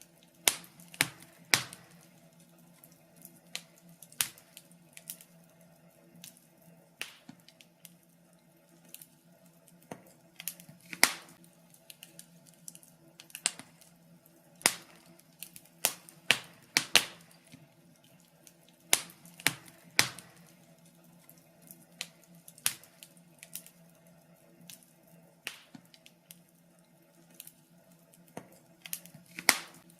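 Wood fire crackling in a fireplace: irregular sharp pops and snaps, a few at a time and unevenly spaced, over a faint steady low hum.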